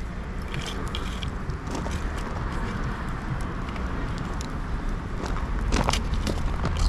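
Open wood fire of dried shiitake logs and fig branches crackling, with scattered sharp snaps over a steady low rumble and a cluster of louder snaps near the end.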